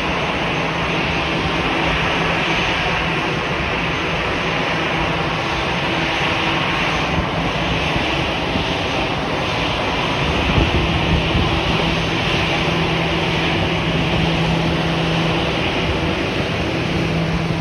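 Fixed-wing aircraft engine noise running steadily: an even, dense rushing sound with a low steady hum under it, growing a little louder about ten seconds in.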